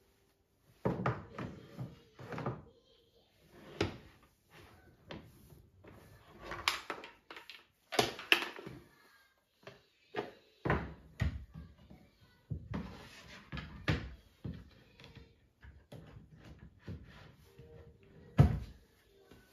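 Household items being handled and put away: a rapid, irregular run of knocks, clunks and clatters, with one sharp knock near the end louder than the rest.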